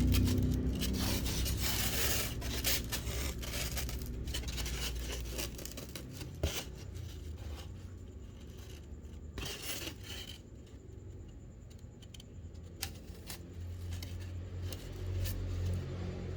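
Scratchy handling noises with scattered clicks and crackles. A low rumble fades out over the first few seconds.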